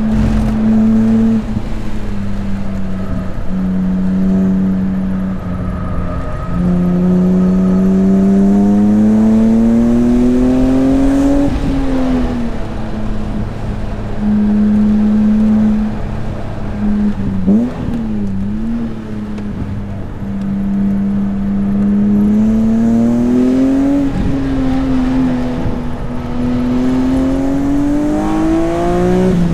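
BMW S54 3.2-litre straight-six in an E36 M3 at track pace: the engine note climbs steadily under acceleration and drops sharply at each gear change, about three times, with stretches of steady pitch in between.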